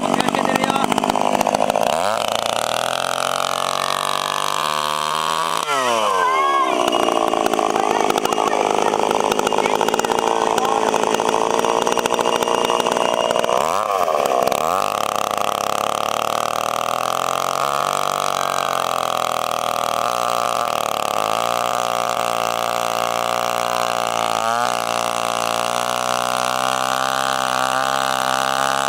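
Small two-stroke chainsaw engine running. Its speed dips and picks up again a few times, then it runs steadily.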